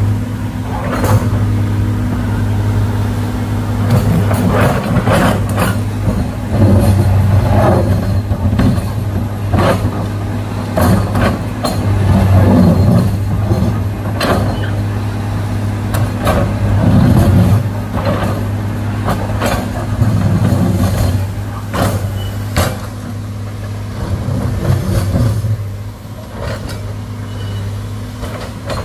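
Excavator's diesel engine running steadily under load, with irregular sharp knocks and scraping surges as the machine works against hard rock.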